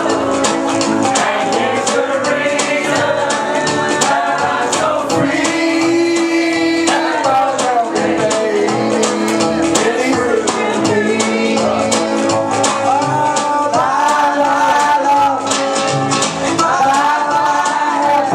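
Karaoke: a singer's voice carrying a melody over a backing track with a steady beat.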